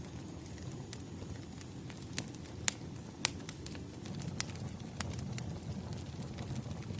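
Wood fire crackling: a steady low rumble of burning logs with irregular sharp pops and snaps, a few louder ones about 2.7 and 3.3 seconds in.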